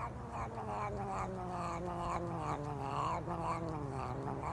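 A cat yowling in one long, drawn-out, wavering call whose pitch slowly falls, over a low steady hum.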